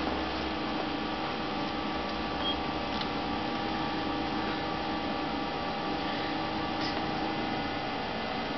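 Steady electrical hum over a constant hiss, with a couple of faint clicks.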